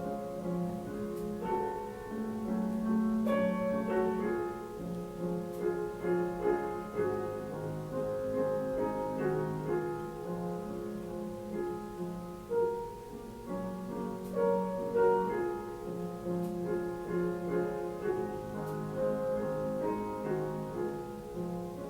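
Piano music: a slow piece of held notes moving in steps.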